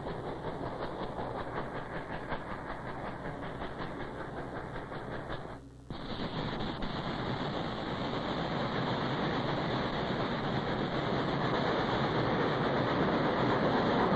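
Steam train running by with a rhythmic clatter of wheels; after a brief dropout about six seconds in, it continues as a steadier, denser running noise that grows louder toward the end.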